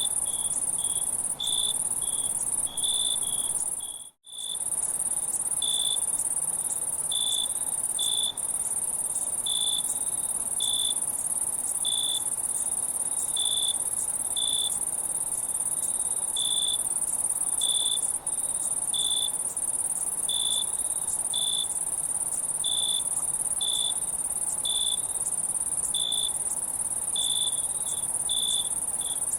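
Crickets chirping: a steady high trill underneath short, sharper chirps repeating roughly once a second. The sound cuts out completely for a moment about four seconds in.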